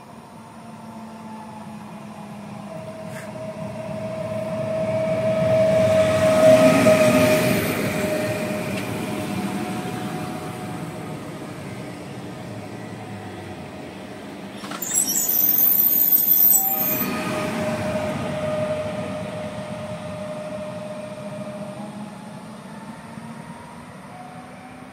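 PESA Elf electric multiple unit entering the station: its rumble and a steady whine build to a peak about six seconds in and then ease off. A second loud burst with a sharp high hiss comes about fifteen seconds in, lasts a couple of seconds and fades.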